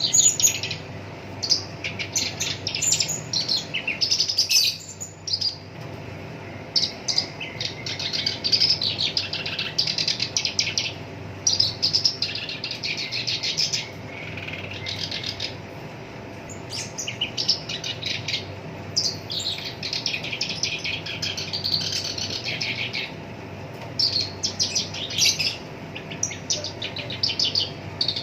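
Black-browed reed warbler singing a rapid, rough, chattering song in phrases of a second or two, separated by brief pauses, over a faint steady hum.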